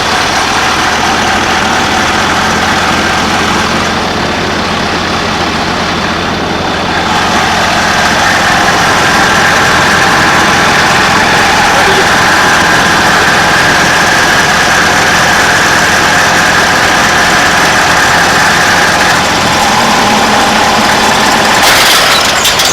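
24-valve Cummins turbo-diesel running steadily at idle. A higher hiss comes in about eight seconds in and eases off a few seconds before the end.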